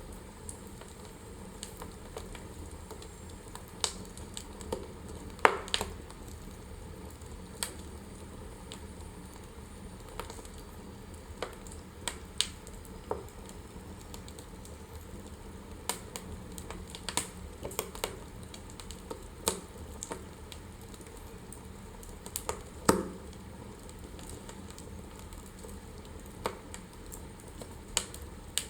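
Wood fire in a fireplace crackling: irregular sharp pops and snaps over a low steady hiss, with a louder pop about five seconds in and another past the twenty-second mark.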